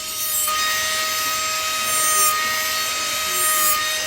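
Small power tool running with a steady high whine while it works a piece of wood, the rasping of the cut swelling a few times, about a second or so apart.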